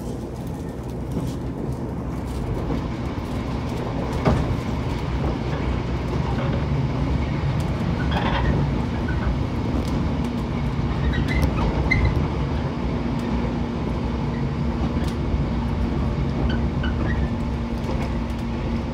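Running noise of a Shinano Railway train heard from inside the carriage: a steady low rumble with wheels clicking over rail joints and points. A steady low hum joins about two-thirds of the way through.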